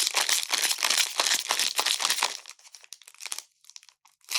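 Foil Pokémon booster pack wrapper crinkling and tearing as it is opened, a dense crackle for about two and a half seconds, then sparser crinkles and a brief lull near the end.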